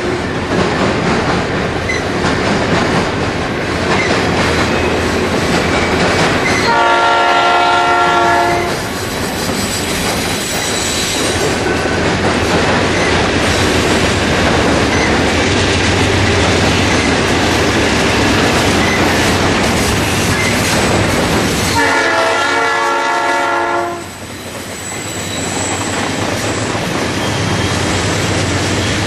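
Freight train rolling past close by, its wheels clacking over the rail joints. The locomotive's air horn sounds twice, each blast about two seconds long, the first about seven seconds in and the second about twenty-two seconds in.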